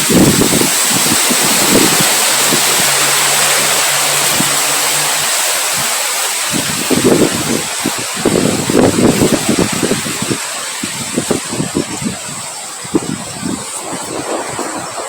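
Strong wind blowing steadily with a loud hiss, gusting against the microphone in irregular low buffets. A faint low hum sits under it for a few seconds near the start.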